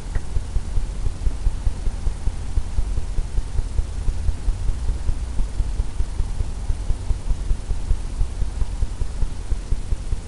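Oil paint being tapped onto a stretched canvas, giving a steady run of soft, low thumps about four a second.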